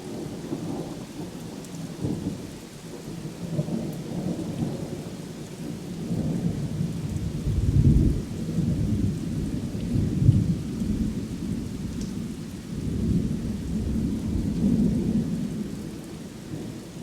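Thunder rumbling over steady rain. The rumbles swell and fade in waves, loudest about eight and ten seconds in, with a longer rolling rumble near the end.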